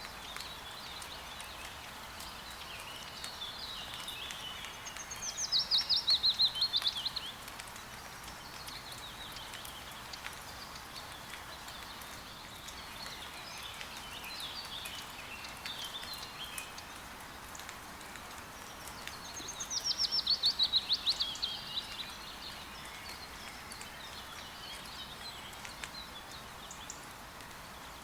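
Steady rain with forest birds. Twice a bird gives a loud, rapid trill of about two seconds that falls in pitch, with fainter chirps between.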